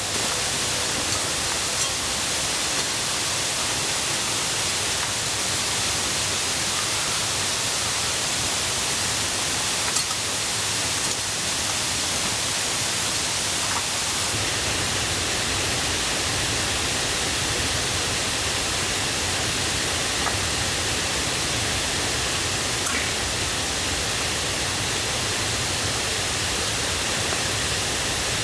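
Mountain river and waterfall rushing steadily, running high and loud after the previous day's rain, with a few faint clicks.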